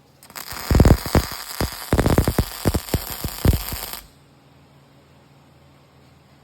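Welding arc crackling in a dense, uneven stream of sharp pops and hiss for about four seconds, then cutting off abruptly, leaving a faint low hum.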